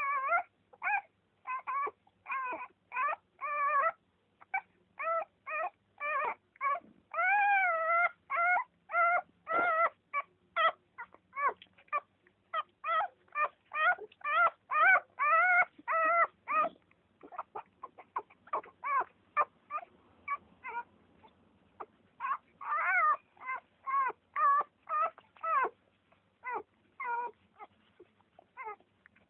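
A newborn litter whimpering and squealing: many short, high cries in quick succession, some wavering up and down in pitch, with a few longer cries about seven to ten seconds in.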